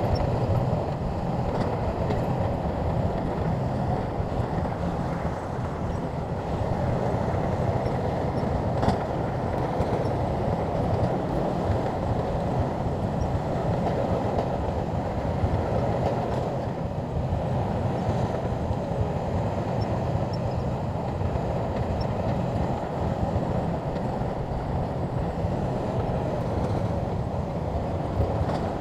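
SHANTUI crawler bulldozer working, its diesel engine and tracks running with a steady mechanical noise that holds an even level throughout.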